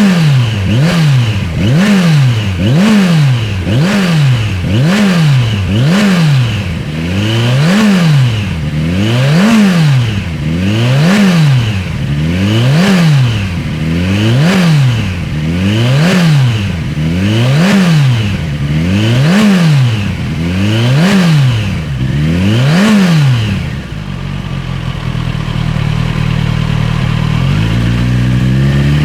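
Kawasaki Ninja 1100SX's inline-four engine through a TRICK STAR IKAZUCHI slip-on muffler, blipped repeatedly: the exhaust note rises and falls about a dozen times in quick succession, then settles to a steady idle near the end.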